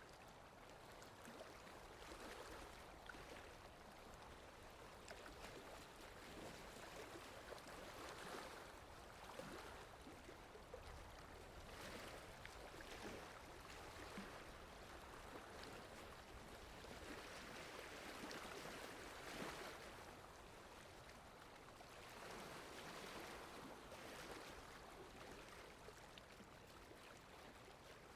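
Faint water lapping in gentle swells that rise and fall every few seconds, with wind rumbling low underneath.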